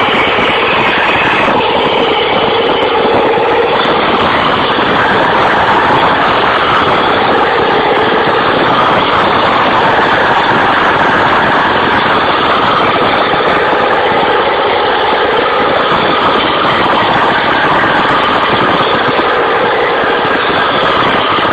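Truck engine running hard under load, a loud, steady drone without a break.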